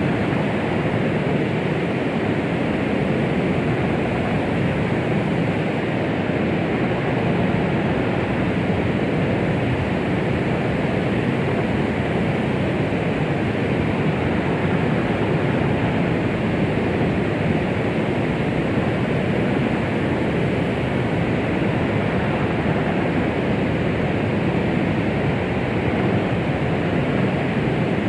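Steady white noise, a 'sound of the womb' track for calming a baby: an even, unbroken shushing with no beat or change, heaviest in the low and middle range and thinner in the highs.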